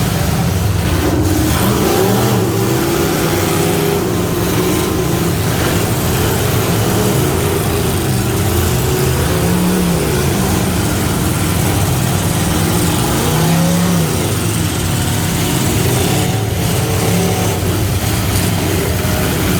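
Half-ton pickup truck engine running hard and loud, its pitch wavering up and down as the revs change.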